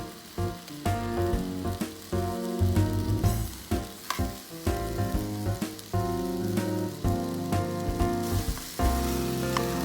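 Food sizzling and frying in a pan over a camp stove, with stirring, under background music.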